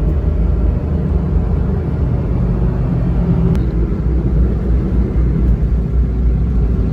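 Steady low vehicle rumble, like a car in motion.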